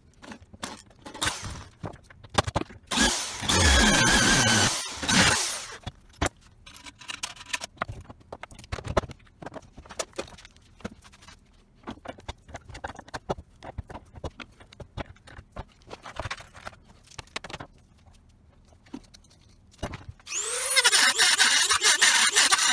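Workshop power tool and handling noises. A power tool runs briefly about three seconds in. Then come scattered clicks and knocks of parts and tools being handled. About twenty seconds in, a power tool starts with a rising whine as it spins up and keeps running.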